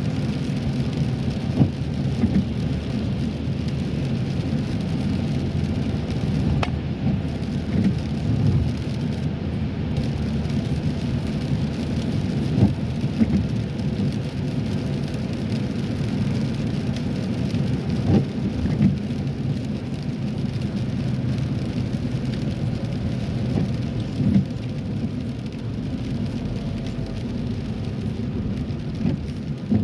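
Steady low road and engine rumble inside a car driving in rain, with a light patter of rain on the car and scattered sharp taps.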